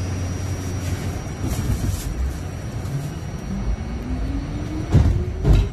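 Kawasaki R68A subway car's traction motors whining up in pitch as the train gathers speed, over a steady low rumble, with two sharp wheel knocks near the end.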